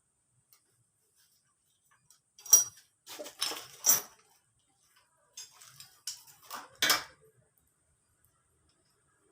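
Metal tools and engine parts clinking and clattering against each other in two short bouts of handling, a couple of seconds apart.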